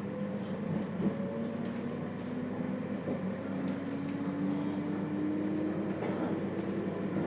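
Running sound inside the motor car of a JR Hokkaido 721 series electric train with thyristor phase control: the traction motor whine rises slowly in pitch as the train gathers speed, over a steady low hum and rolling noise, with a few faint rail-joint clicks.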